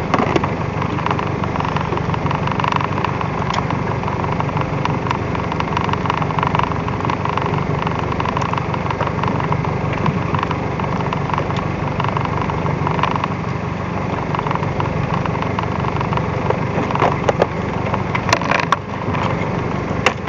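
Fishing boat's engine running steadily, with a few sharp knocks near the end.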